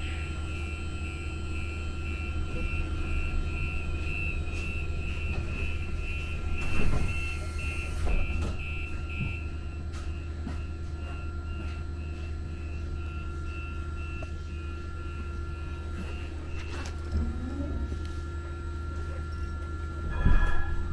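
Rapid electronic beeping from a Muni Metro light-rail train, about two or three short high beeps a second, which stops near the end. Under it runs the train's steady hum and rumble, with a few knocks.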